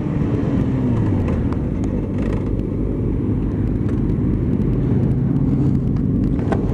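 Motorcycle engine running steadily while riding, its pitch dipping slightly about a second in.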